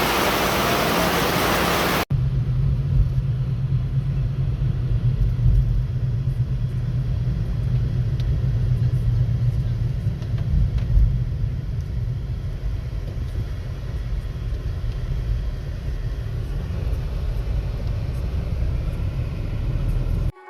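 Rain pouring with a loud, even hiss. About two seconds in it cuts off abruptly to a steady low rumble with faint scattered ticks.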